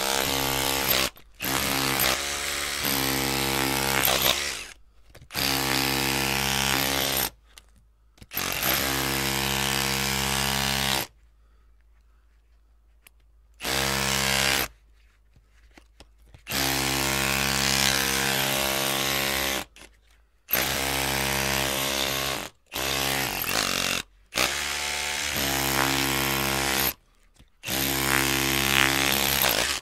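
Electric drill running at a steady speed in about ten bursts of one to three seconds, stopping abruptly between them, with a longer pause of about three seconds near the middle.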